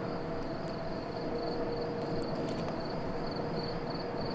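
Night-time background of insects chirping in a steady, pulsing high trill a few times a second, over a low steady hum.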